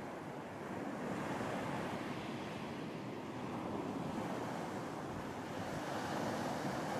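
Surf washing onto a beach, a continuous rushing wash that swells a little about a second in and again near the end.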